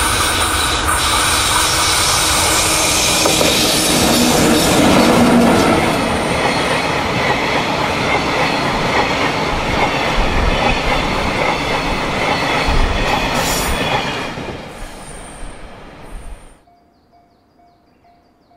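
Freight train of tank wagons behind two EF64 electric locomotives passing close by: a loud, steady rumble and clatter of wheels on the rails, with high wheel squeal on the curve. It fades over the last few seconds and cuts off suddenly near the end, leaving quiet background.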